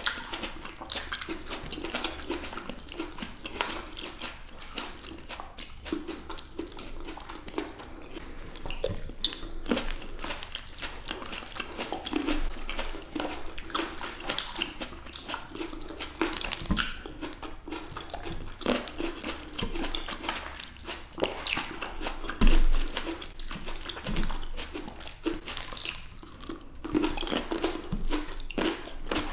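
Close-miked chewing and biting of fresh black grapes by two people: a steady run of wet, squishy crunches and small mouth clicks. One duller, louder bump comes about three-quarters of the way through.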